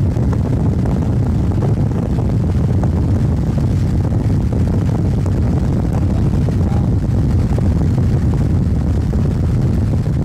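Loud, steady low rumble of a car driving, with wind buffeting the microphone.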